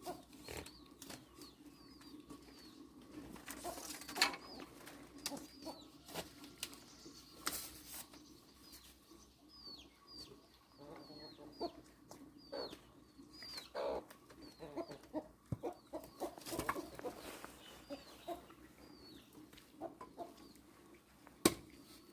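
Chickens clucking softly, with repeated short, high chirps that fall in pitch, and occasional light knocks.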